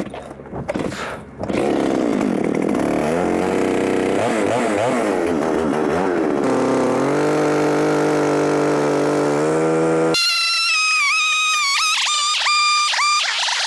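A small engine running, its speed wavering for a few seconds and then holding steady. About ten seconds in it cuts off abruptly and a high, wavering whine takes over.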